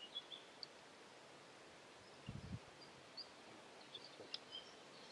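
Quiet woodland ambience with faint, scattered bird chirps. A brief low thump about two seconds in.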